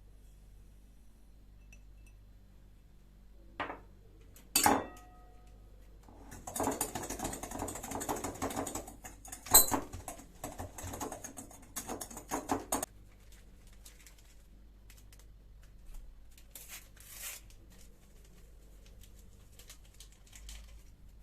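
Household objects being handled: two short knocks, then about six seconds of busy clattering and rustling with one sharp knock partway through, then a few light taps.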